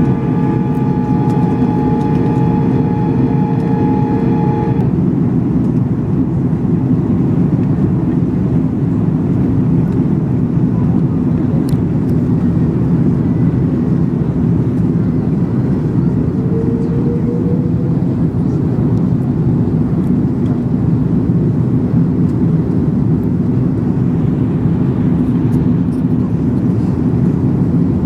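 Cabin noise aboard an Airbus A330-243 in flight: a steady roar of its Rolls-Royce Trent 772B engines and the airflow past the fuselage. A steady whine of several pitches sounds over it and stops about five seconds in.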